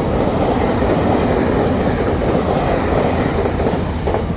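Taiwan Railway train passing through a station without stopping: a loud, steady rumble of wheels on rail that begins to fade near the end.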